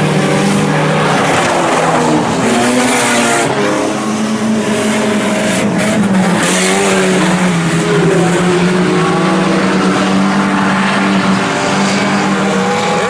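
IMCA Sport Compact race cars' four-cylinder engines running hard. Several engine notes overlap, their pitch repeatedly dipping and climbing as the cars back off and accelerate around the oval.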